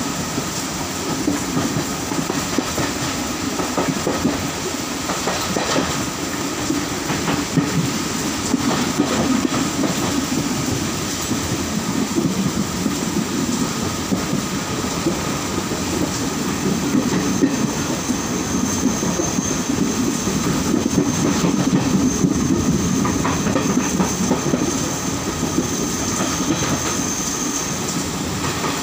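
Passenger train running at speed, heard at an open carriage door: a steady rumble and rush of steel wheels on rail with scattered clacks over the rail joints. A thin, high-pitched squeal from the wheels joins about halfway through and holds until near the end.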